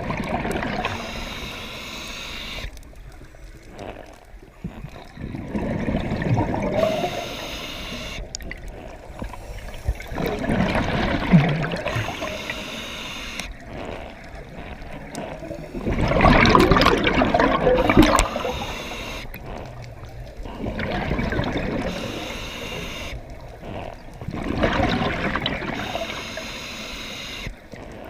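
Water bubbling and gurgling in surges that come every four to five seconds, the loudest about halfway through.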